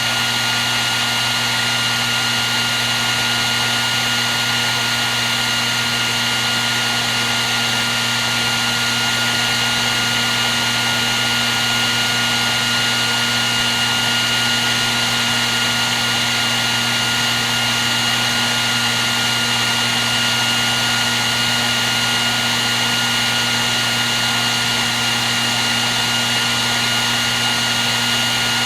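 Hair dryer running steadily without a break: an even rush of blown air with a constant high whine and a low motor hum underneath.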